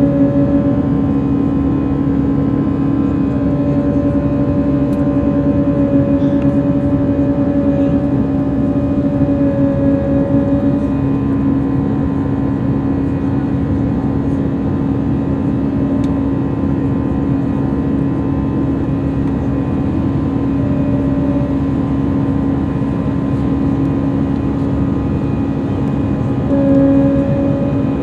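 Airbus A319 jet engines and airflow making a steady drone after takeoff, with a steady low hum and a higher tone that comes and goes a few times.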